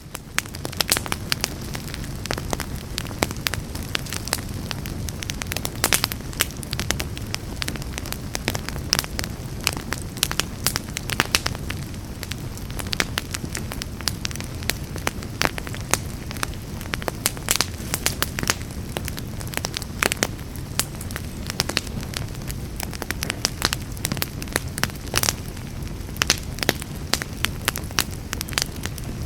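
Campfire burning: wood crackling with frequent sharp, irregular pops over a steady low rumble of the flames.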